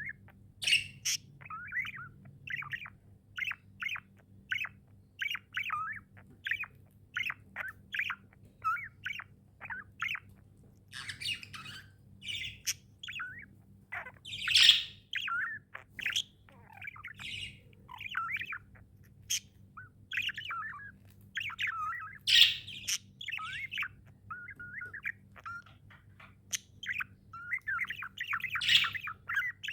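Pet budgerigars chirping in a rapid series of short warbling notes, a few each second, broken by several louder, harsher squawks.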